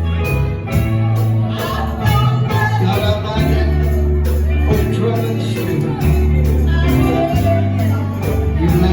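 Church gospel music: a band plays held bass notes under a steady beat, with voices singing over it.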